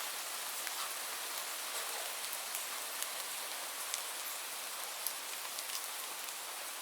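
Steady rainfall: an even hiss of rain with scattered sharper drop taps on a surface.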